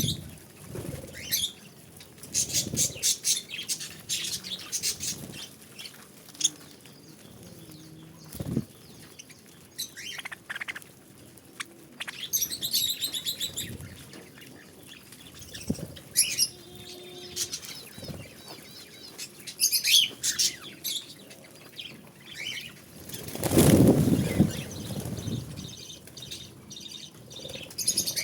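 Budgerigars chirping in short, rapid trains, with fluttering wings; the loudest moment is a burst of flapping a little past two-thirds of the way through.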